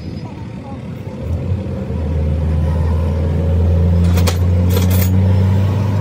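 An engine running steadily, growing louder about one and a half seconds in and holding, with a few sharp clicks near the end.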